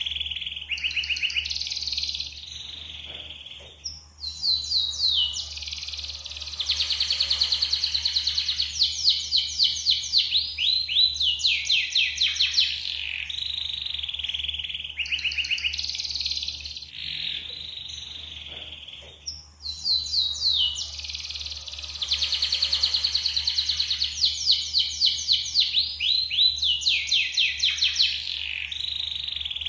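Yellow canary singing a long continuous song of fast trills and rolling runs of repeated high notes, with brief breaks about four seconds in and again near nineteen seconds. The same sequence of phrases comes round again about every fifteen seconds.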